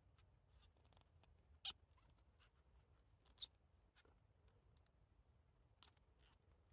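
Near silence with three faint, short clicks and snaps spread across a few seconds, from oyster mushrooms being harvested off a log by hand.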